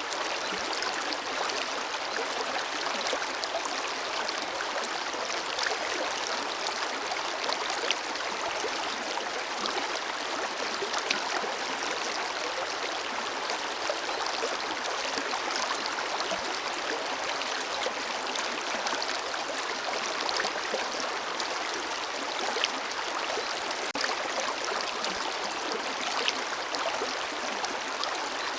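Forest river flowing over rocks: a steady rush of water with small splashes and gurgles throughout, and little low rumble.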